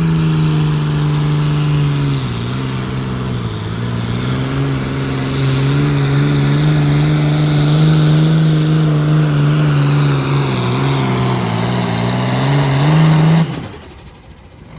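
Pulling machine's engine running flat out during a hook, its pitch sagging and recovering a few times under the sled's load, then shut off abruptly near the end.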